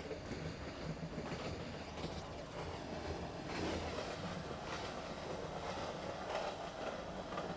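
Train running along the track: a steady rumble with occasional faint rattles.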